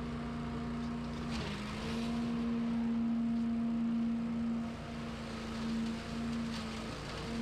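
Small gas-powered lawn-equipment engine running at high, steady revs, with its pitch dipping briefly about a second and a half in and a few more times near the end as the throttle eases off.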